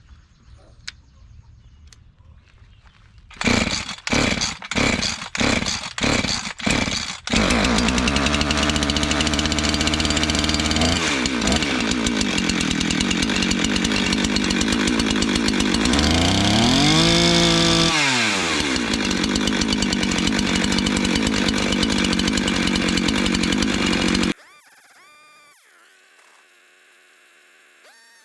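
Husqvarna 350 two-stroke chainsaw, fitted with a new Hipa replacement carburetor, being pull-started. Several hard pulls about a second apart sputter, then it catches and runs fast before settling to a lower speed. It revs up and back down once, runs on steadily, then shuts off abruptly near the end.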